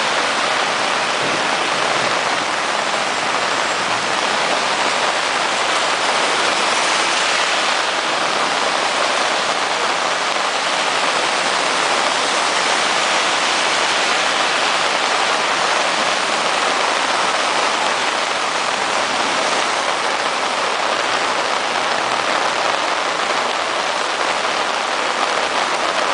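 Heavy rain falling and pattering on surfaces, a dense, steady downpour.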